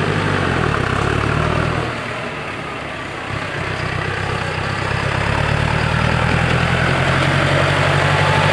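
Motor vehicle engine running at low revs, dipping in level a couple of seconds in, then growing steadily louder.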